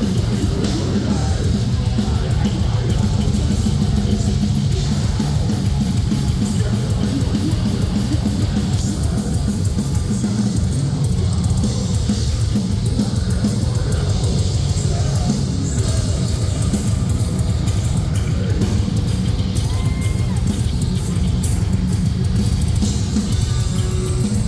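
Metalcore band playing live at full volume: distorted electric guitars, bass and drum kit, with cymbal hits through the second half.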